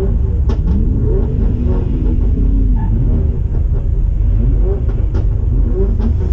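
Loud, low rumble of car engines, with revs rising and falling several times and a few sharp clicks.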